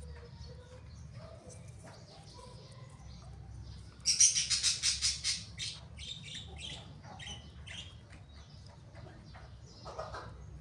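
A small bird chirping: a fast, loud run of high chirps about four seconds in, lasting about a second and a half, then scattered single chirps, over a steady low hum.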